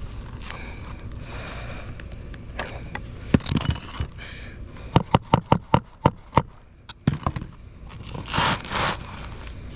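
Asphalt roof shingles scraping and rustling as a replacement shingle is worked in underneath the course above. Midway comes a quick run of about eight sharp taps.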